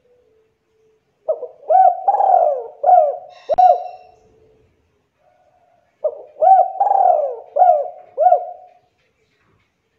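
Spotted dove cooing: two phrases of several coos each, the first starting about a second in and the second about six seconds in, with a pause between them. A sharp click sounds during the first phrase.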